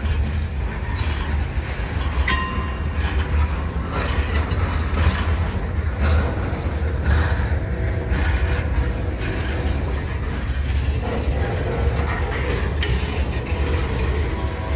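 Union Pacific train's cars rolling past: a steady low rumble of steel wheels on rail, with a sharp metallic knock and brief ring about two seconds in and again near the end.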